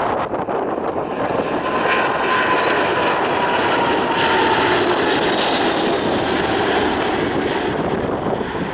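Airliner engines passing close by: a loud, steady rushing noise with a faint high whistle that slides slightly down in pitch through the first half.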